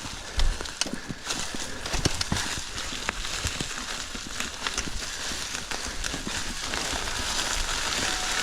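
Mountain bike rolling over a rocky, leaf-covered trail: a steady hiss of tyres through leaves with many irregular knocks and rattles from the bike over rocks.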